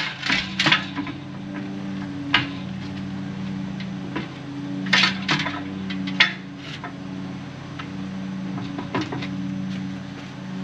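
Metal clinks and knocks from steel sled parts and hand tools being handled, scattered sharp taps with a cluster near the start and another about five seconds in, over a steady low hum.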